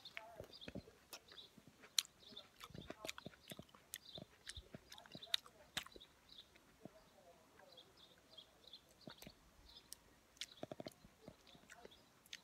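Close, wet chewing of small juicy cherry plums, with scattered sharp lip smacks and mouth clicks. Faint, rapidly repeated bird chirps carry on behind.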